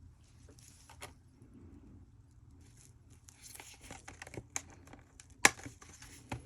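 Hands rummaging and handling small objects, with crinkly rustling and scattered light clicks, and one sharp click about five and a half seconds in.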